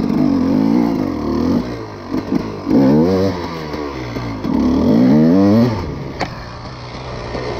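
KTM EXC 300 two-stroke enduro motorcycle engine revved hard in repeated surges as it is ridden over loose forest dirt, the pitch climbing and dropping three times before settling to lower, steadier revs near the end.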